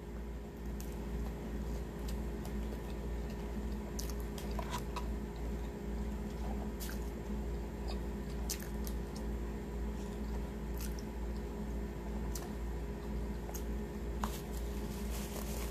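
Close-up wet chewing and biting of a barbecue pulled pork sandwich and fries, with scattered sharp mouth clicks, over a steady low hum.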